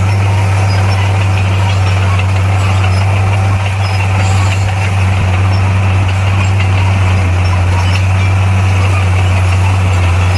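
Diesel engine of heavy earthmoving equipment running steadily with a low, even hum.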